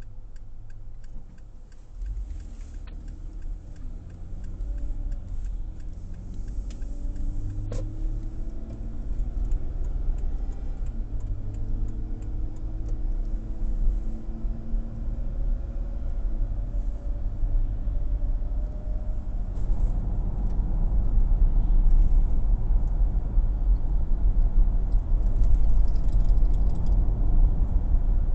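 Car engine and road rumble heard from inside the cabin as the car pulls away and gathers speed, growing louder throughout. The engine note rises and drops back several times through the gear changes, and a turn signal ticks at the start.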